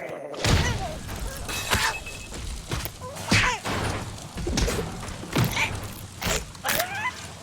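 Cartoon slapstick sound effects: a run of thumps and crashes, with short squawking cries that glide up and down in pitch between them.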